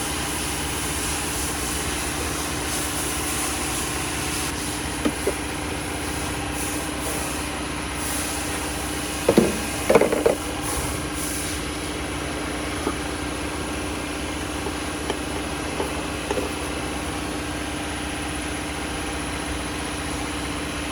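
A machine running with a steady hum, with a few short knocks about nine and ten seconds in.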